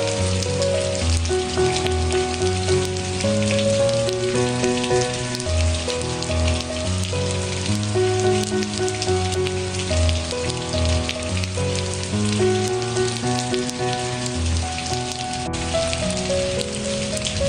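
Steady rain pattering, with many small drop ticks, laid over slow, soft background music: sustained melodic notes over a low bass line.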